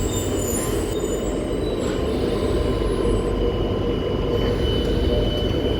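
An old Tyne and Wear Metrocar electric train arriving: a steady rumble of the moving train with a thin, high squeal that grows stronger over the last couple of seconds.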